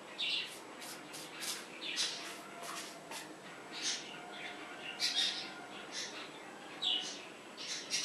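Small birds chirping: short, sharp high calls repeating irregularly about once or twice a second, with a faint held note around the middle.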